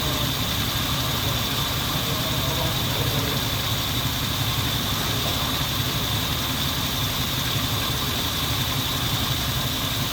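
1992 Ford Explorer's 4.0-litre V6 engine idling steadily, with a steady high whine over the running.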